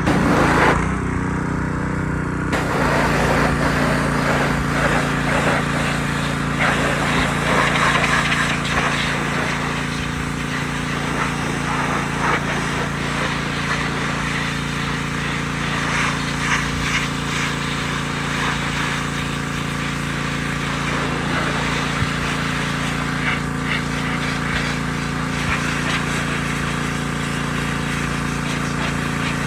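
Truck engine running with a steady drone and a haze of road noise. Its pitch shifts once about two to three seconds in, then holds steady.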